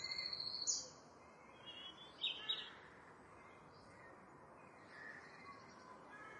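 Faint bird chirps over quiet outdoor ambience: a high, thin, steady trill in the first second, then a few short chirps about two seconds in.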